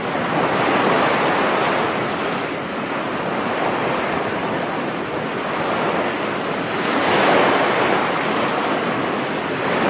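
Ocean surf breaking and washing up a beach: a continuous rush that swells louder about seven seconds in as a wave comes in.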